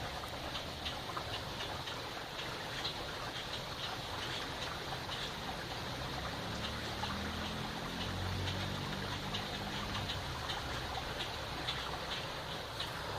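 River water running steadily. Short high ticks are scattered through it, and a low hum swells and fades in the middle.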